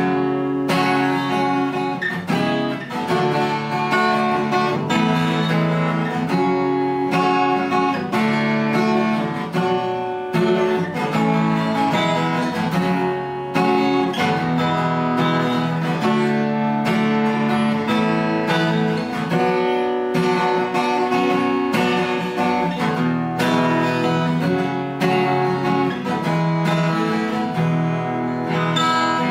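Ruison RD-45N acoustic guitar, with a spruce top and rosewood back and sides, played continuously with clear, ringing notes.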